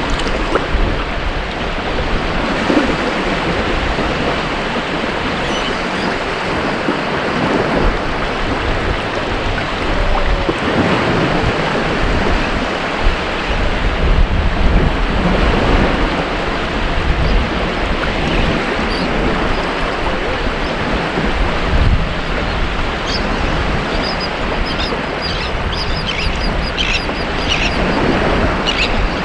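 Ocean surf washing onto a beach: a steady rush of breaking waves that swells and eases. In the last few seconds, short high chirps sound over the surf.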